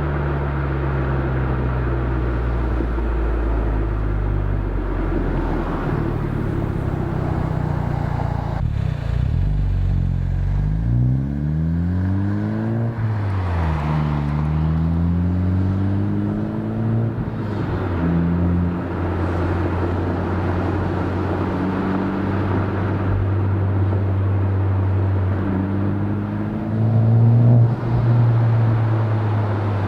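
Exhaust note of a Honda Civic Type R (FK8) 2.0-litre turbocharged four-cylinder with a catted downpipe, front pipe and stock catback, recorded at the tailpipe while driving. The engine runs at a steady cruise, then pulls up through the revs and drops on an upshift twice in a row in the middle, and once more near the end.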